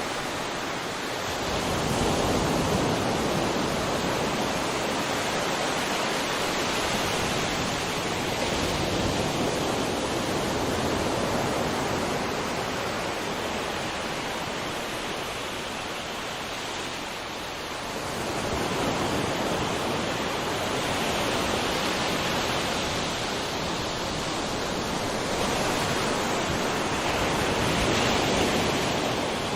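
Sea waves washing onto a shore in a steady rush, swelling and easing slowly as the waves come in and draw back.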